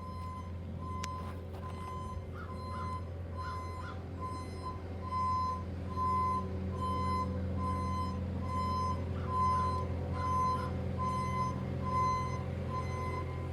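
Vehicle backup alarm beeping at an even pace, about one and a half high beeps a second, over a steady low engine hum.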